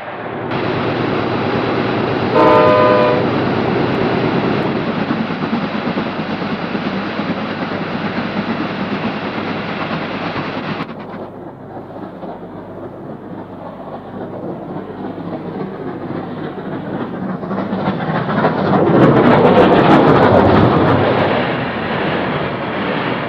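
A train running with a steady rumble and clatter, and a short horn or whistle blast about two and a half seconds in. The sound drops suddenly at about eleven seconds and swells up again near the end.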